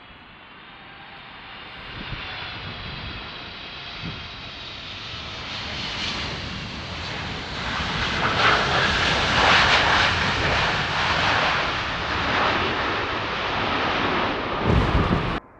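Large jet airliner on landing approach passing close by. Its engine whine grows into a loud rush of jet noise that peaks past the halfway point and stays loud. A brief low thump comes just before the sound cuts off suddenly near the end.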